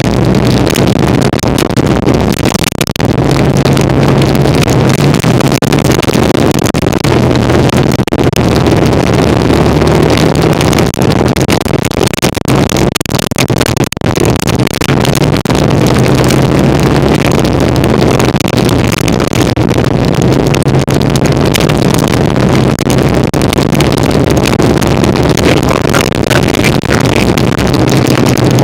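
1975 Kawasaki KZ400 parallel-twin engine running steadily while the motorcycle is ridden, with wind rushing over the bike-mounted microphone.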